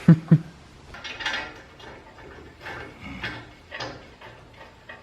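Metal parts clinking, scraping and rattling as they are handled, with two short low sounds right at the start.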